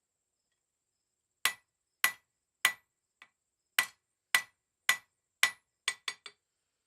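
Hand hammer striking mild steel round bar on an anvil: seven or eight evenly spaced ringing blows about half a second apart, starting about a second and a half in. They end with three quicker, lighter taps.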